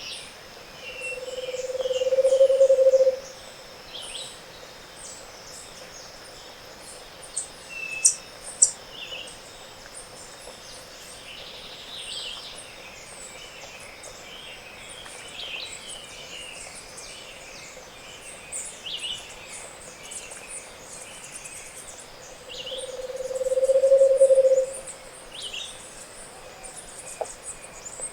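Scaled antpitta singing twice, each song a low hollow trill of about two seconds that swells in volume. Behind it runs a chorus of short high-pitched calls from other birds and a steady insect whine, with two sharp snaps about eight seconds in.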